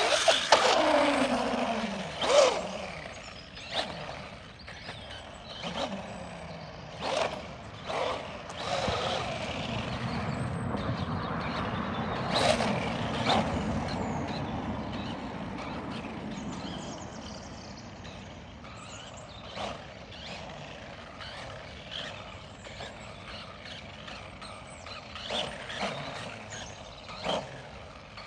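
Electric radio-controlled cars running on rough ground: motor whine that falls in pitch as a car slows near the start, with tyre noise and scattered sharp knocks from the chassis and wheels.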